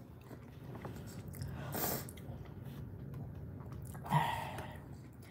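A person chewing a mouthful of shredded chicken, soft wet chewing close to the microphone, with a short louder sound about four seconds in.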